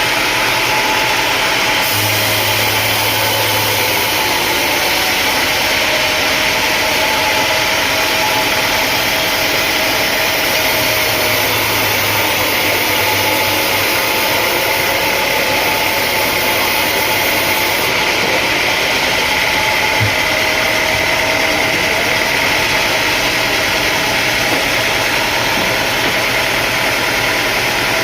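Sawmill machinery running steadily, a dense even mechanical noise with a faint hum that wavers in pitch, and a single short knock about two-thirds of the way through.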